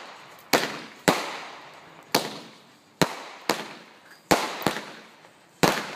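Fireworks going off close by: about eight sharp bangs at uneven intervals, some in quick pairs, each trailing off in a short echo.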